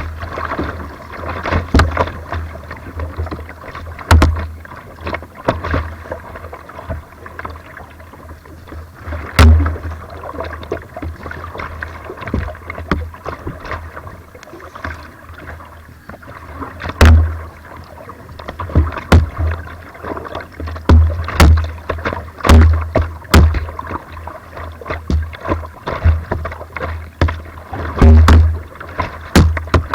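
Slalom kayak being paddled on rushing weir water: a steady rush of water broken by irregular sharp thuds and splashes of paddle strokes, coming every second or so and bunching together near the end.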